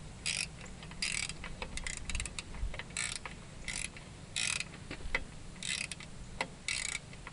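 Ratchet wrench clicking in short strokes: about seven brief bursts spread irregularly, with scattered single clicks of tools between.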